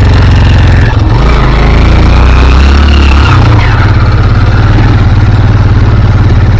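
Motorcycle engine running loud while the bike is ridden, its low note shifting for a couple of seconds about a second in.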